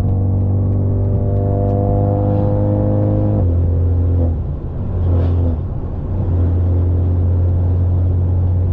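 Straight-piped, catless BMW 530 exhaust droning under acceleration, its pitch rising for about three and a half seconds. Then the note drops suddenly with a gear change and settles into a steady drone, with a brief dip in loudness soon after.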